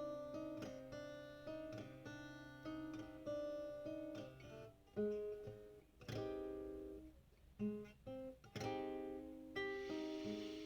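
Acoustic guitar playing an instrumental passage: picked and strummed chords ringing and decaying, sparser for a few seconds around the middle, then fuller again.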